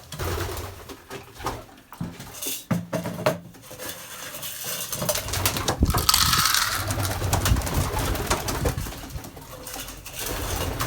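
Racing pigeons cooing in their loft, with a louder burst of rustling, scattering noise starting about six seconds in.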